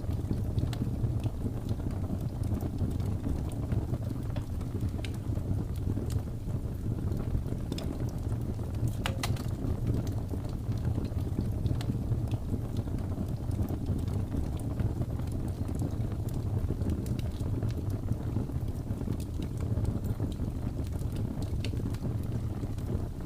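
Wood fire crackling in a fireplace, sparse sharp pops with one louder snap about nine seconds in, over a steady low rush of blizzard wind.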